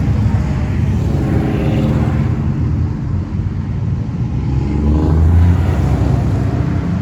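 Engines of classic cars cruising past, a low rumble that rises in pitch and grows loudest about five seconds in as one car revs by.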